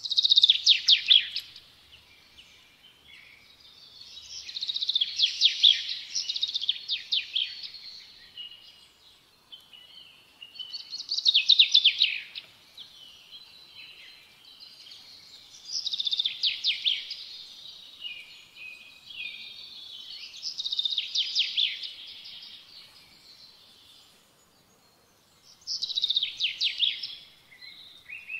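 A bird singing: short phrases of rapid high trilled notes, about six of them repeated every few seconds with pauses between.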